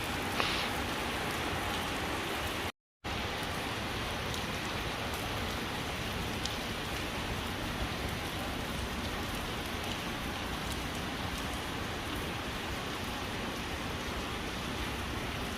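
Steady rain falling, an even hiss of drops with no break in intensity. The sound cuts out completely for a moment about three seconds in.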